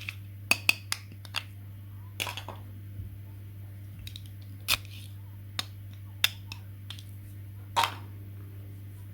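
Scattered sharp clicks and taps, about a dozen at irregular intervals, over a steady low hum.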